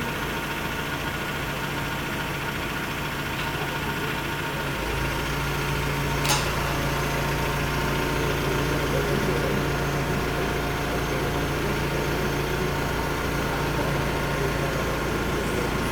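Engine of the crane lift running steadily, its low hum growing heavier about five seconds in, with one sharp click just after six seconds.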